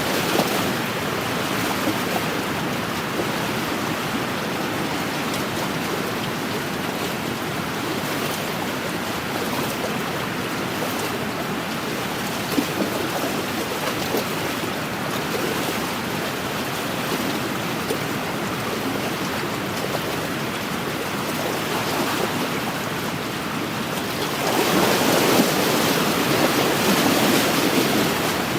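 Wind-driven waves washing against a lakeshore, with wind, as a steady wash that swells louder for the last few seconds.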